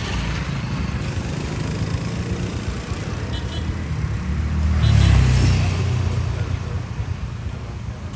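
Motor vehicle engine running with road and traffic noise. About five seconds in, a louder engine swells up and fades away again.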